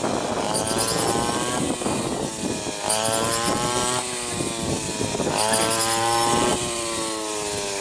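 Small engine running steadily, its pitch slowly sagging and then jumping back up about every two seconds, three times over.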